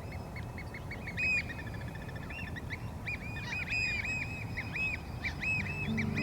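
Birds calling over and over in short arching chirps, with a rapid trill about a second in, over a low steady rumble. Low sustained music notes come in near the end.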